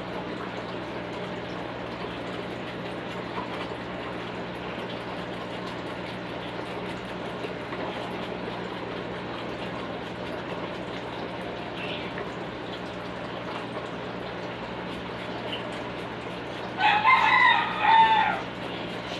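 A rooster crows once near the end, a loud call of several parts lasting about a second and a half, over a steady background hiss with a faint low hum.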